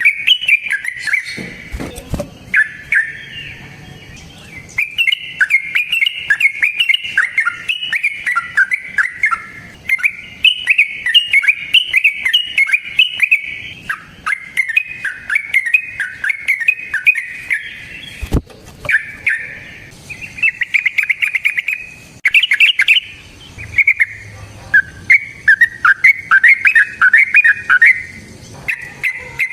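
Yellow-vented bulbul (trucukan) singing long, rapid runs of bubbling chirps with only short pauses between phrases, the long 'ropel' song used as a lure for other bulbuls. A couple of sharp clicks cut in, one about two seconds in and one past the middle.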